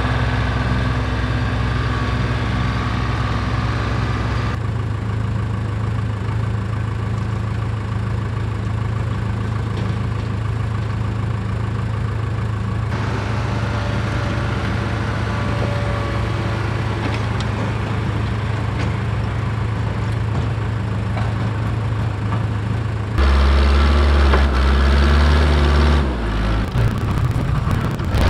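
Diesel engine of farm equipment (tractor or backhoe) running steadily under work. The sound changes abruptly a few times, and a deeper, louder engine stretch comes near the end.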